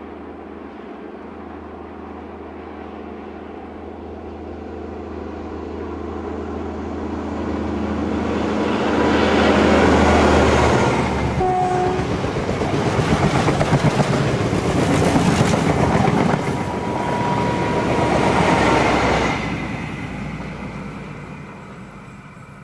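Countrylink XPT express train passing at speed. The drone of its leading diesel power car grows steadily louder as it approaches and peaks about ten seconds in. The carriages then rush past with wheels clacking over the rails, a second peak comes as the rear power car passes, and the sound fades quickly after that.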